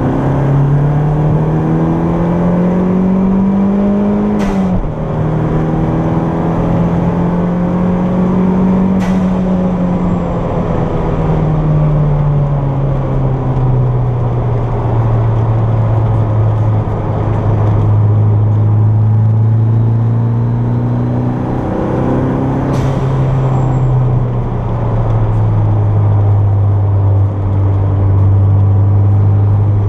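Toyota MR2 engine under load, heard from inside the cabin. It revs up, drops sharply at an upshift about four seconds in, and pulls up again. Then it backs off with the pitch falling slowly and holds a steady lower note, with a brief rise and a sharp short sound near the three-quarter mark.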